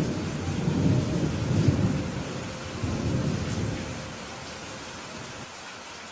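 Steady rain falling, with a roll of thunder rumbling through the first few seconds and fading away about four seconds in.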